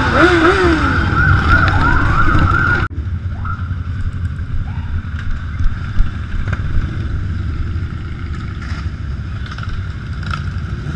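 Two sirens sound over a low engine rumble, one a fast warble and one a slower rising and falling wail. About three seconds in the sirens cut off sharply, leaving the steady low rumble of big motorcycle engines running.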